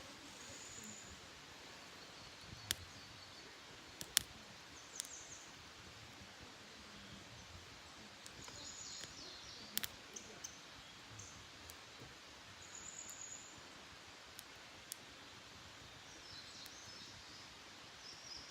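Small wood fire crackling, with a handful of sharp pops scattered through it. Small birds give short high calls several times, and there is a brief warble near the end.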